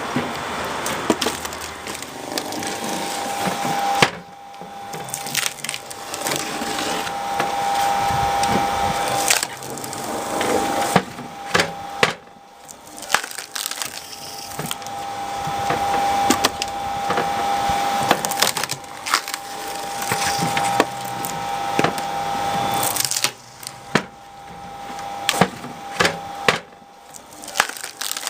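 Screw cone log splitter boring into firewood logs, the wood cracking and splintering again and again over the steady hum of its drive, with a few brief pauses between splits.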